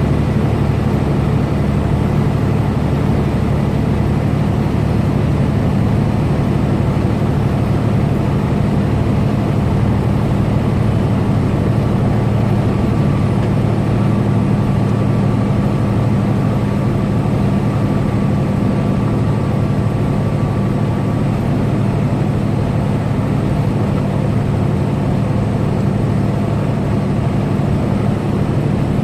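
Semi truck's diesel engine and tyres at steady highway cruise, a constant low drone with road noise, heard from inside the cab.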